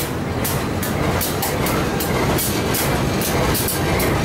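Passenger train carriages rolling past close by, steel wheels running on the rails. A steady rumble carries a rapid, irregular clatter of clicks, several a second.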